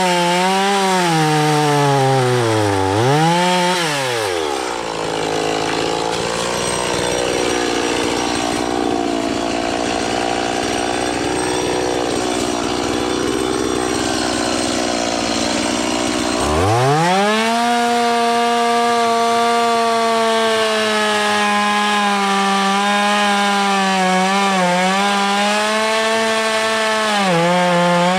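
Gas chainsaw running at high revs and dipping twice. It then pulls down to a lower, rougher note for about twelve seconds, as under load in a cut through a dead ash trunk, before revving back up high and holding there with small dips.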